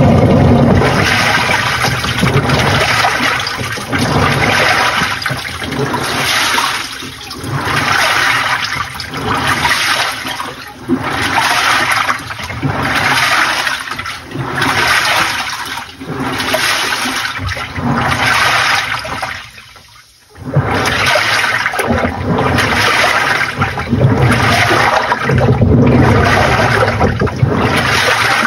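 Water churning in a Panasonic NA-FA80H8 top-loading washing machine as its pulsator agitates the load. It comes in rhythmic surges about every 1.5 to 2 seconds as the pulsator reverses, with a short pause about 20 seconds in.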